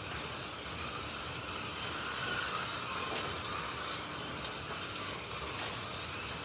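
Several 1/32-scale Slot.it slot cars running laps on the track: a steady whirring of their small electric motors and tyres, with a couple of sharp clicks.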